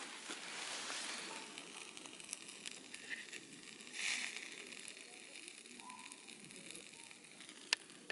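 Wood campfire crackling, with scattered small pops and one sharper pop near the end.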